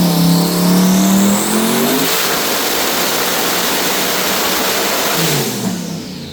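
Twin-turbo 427 LS V8 making a full-throttle pull on a hub dyno: the revs climb quickly with a rising whine over them, then it holds at a loud, steady top note. About five and a half seconds in the throttle is lifted and the revs fall away.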